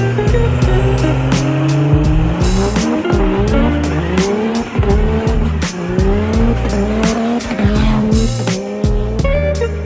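A vehicle engine revving up in rising sweeps several times, mixed with music that has a steady beat.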